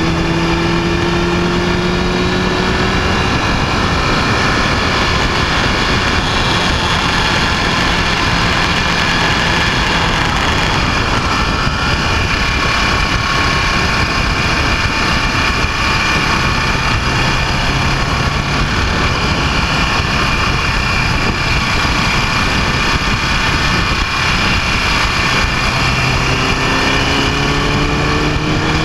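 Motorcycle engine running on the move under heavy wind noise, its pitch climbing as it accelerates at the start and again near the end.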